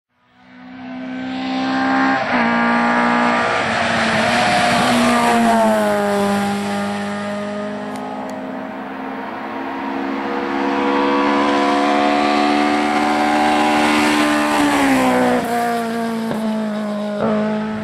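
Lada rally car's engine held at high revs through a corner, its pitch steady for long stretches, with a brief dip about two seconds in and a clear drop in revs near the end before it pulls again.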